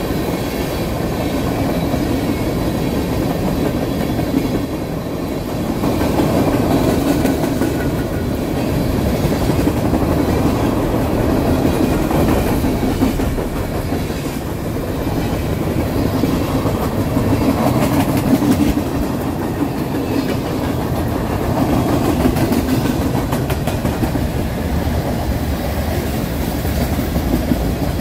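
Freight train cars rolling past: a continuous rumble and clatter of steel wheels on rail, swelling and easing every few seconds as the cars go by.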